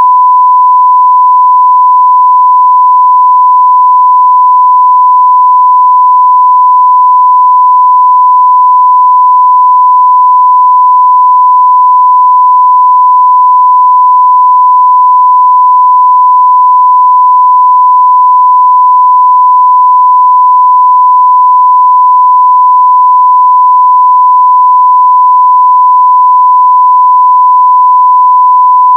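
1 kHz sine-wave test tone at full scale (0 dB), a single steady pure tone, loud and unchanging.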